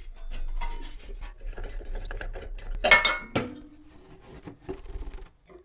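Metal stove parts being handled, with repeated clinks and knocks and one loud metal clang about three seconds in that rings briefly.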